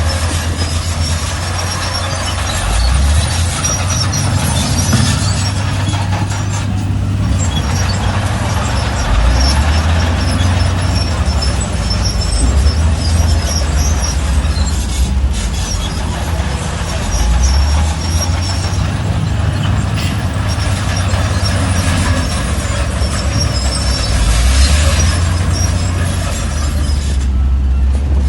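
Heavy diesel earthmoving machinery running under load, the engine rising and falling every few seconds, with high-pitched squeaking throughout.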